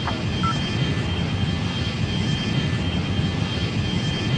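Aircraft engine noise: a steady low rumble with a thin, steady high whine over it.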